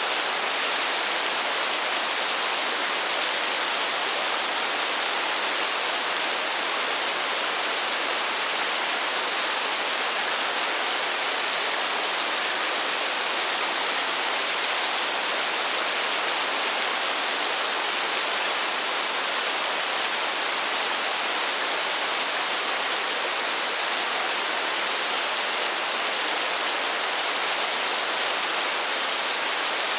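Steady rain, an even unbroken hiss with no single drops standing out.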